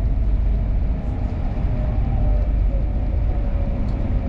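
Passenger train running at speed, heard from inside the carriage: a steady low rumble of wheels on rails with a faint whine above it.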